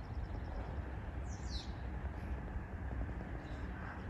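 A small bird's quick falling chirp about a second and a half in, over a steady low outdoor rumble. A faint, fast high-pitched ticking, about six a second, runs near the start and again near the end.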